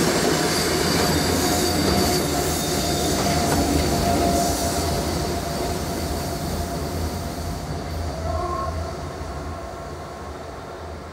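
Flåm Railway passenger train running over a level crossing as its rear electric locomotive passes, with thin wheel squeals over the rumble. The sound fades steadily as the train moves away.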